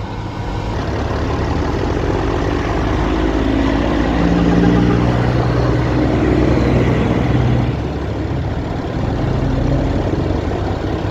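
Semi truck's diesel engine running, heard from inside the cab. The engine note rises and falls a couple of times as the truck drives on.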